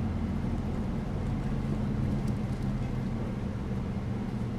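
City bus under way, heard from inside: the engine's steady low hum over road and tyre noise, with a couple of faint ticks about halfway through.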